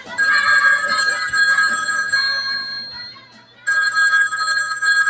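Telephone ringing: two long rings with a short gap between them, the second fading out at the end.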